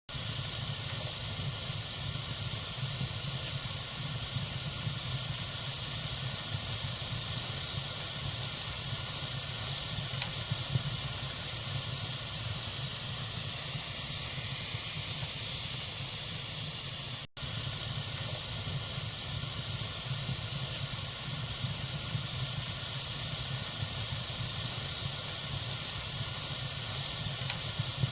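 Wood fire burning in a fireplace: a steady hiss of the flames with a few faint crackles. The sound cuts out for an instant about halfway through.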